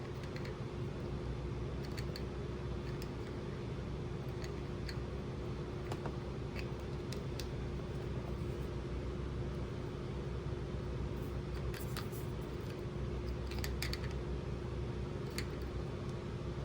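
Scattered small clicks and taps from plastic toy pieces being handled during unboxing, over a steady background hum.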